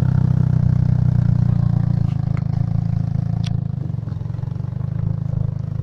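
Small car engine running steadily as the half-car pulls away across gravel, the sound easing a little after about two seconds as it moves off, with a few sharp clicks.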